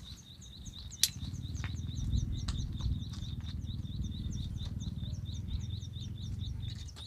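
A bird calling with a fast train of short, high, falling chirps, about five a second, over a low rumbling noise. There is a sharp click about a second in.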